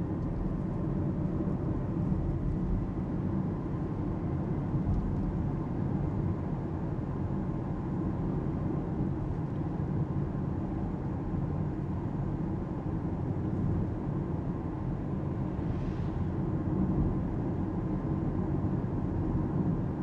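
Steady tyre and road rumble inside the cabin of an Alpine A390 GT, a fully electric car, while driving, with no engine note. A brief faint hiss about 16 seconds in.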